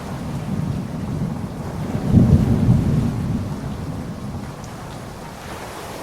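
Steady rainfall with a roll of thunder: a deep rumble swells about two seconds in and slowly dies away.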